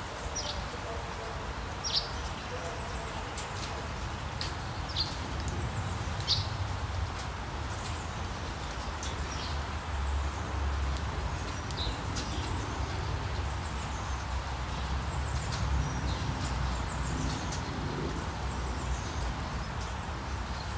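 Outdoor ambience: short, high, downward-sweeping bird chirps every second or few seconds over a steady low rumble and hiss.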